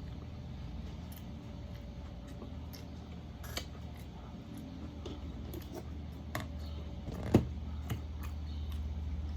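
Close-up eating sounds from tacos: a few sharp crunches and mouth clicks, the loudest a little past seven seconds, over a steady low hum.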